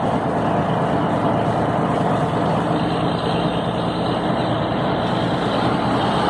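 Scania 112 truck's straight-six diesel engine running steadily while driving, with an even hiss of tyre and wind noise.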